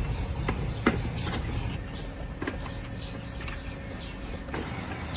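Scattered sharp clicks and light knocks of small metal and plastic parts being handled during a repair, the loudest about a second in, over a steady low rumble.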